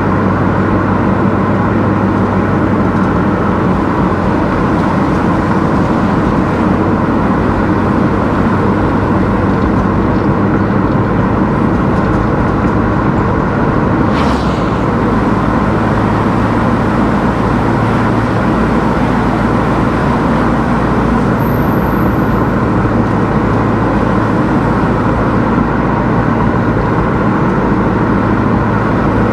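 Car driving along a road: a steady mix of engine and tyre noise with a low hum. There is one brief click or knock about halfway through.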